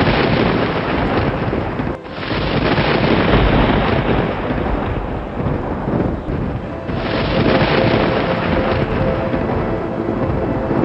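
Thunder rolling in long rumbles, with fresh rolls breaking in sharply about two seconds in and again about seven seconds in, over a hiss like rain. Soft sustained music notes sit underneath.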